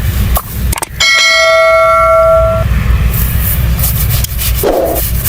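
A single bell-like metallic ring, struck once about a second in and ringing for roughly a second and a half. Short scraping strokes of a razor on skin come before it and pick up again afterwards, over a steady low hum.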